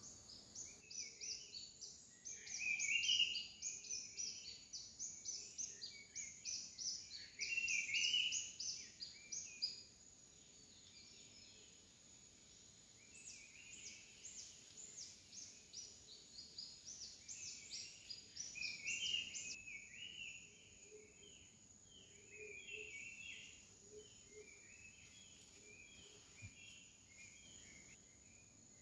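Night forest animal chorus: a steady high insect whine, with two long runs of rapid, high-pitched chirping calls and lower chirps among them, thinning out after about twenty seconds.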